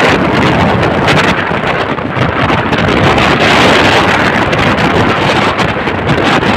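Strong wind buffeting the microphone: a loud, steady rush with no pauses.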